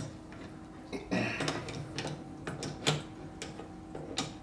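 Irregular metallic clicks and taps of hand tools and bolts being worked on a motorcycle's front fork, with a short scraping rattle about a second in.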